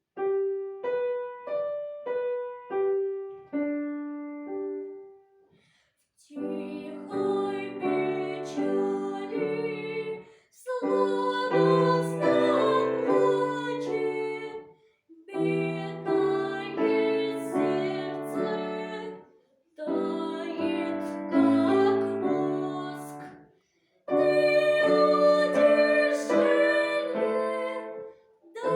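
Solo piano playing: a few single melody notes, then phrases of chords and melody, each ending in a short pause before the next begins.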